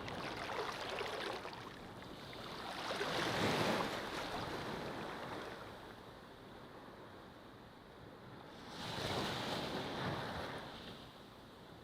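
Ocean surf washing onto a beach: two waves swell and break, the first about three seconds in and the second about nine seconds in, with a quieter wash in between.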